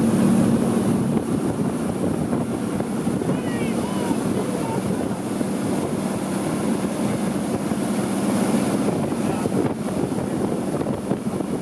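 Motorboat running at speed, its engine hum under a steady rush of wind on the microphone and water spray.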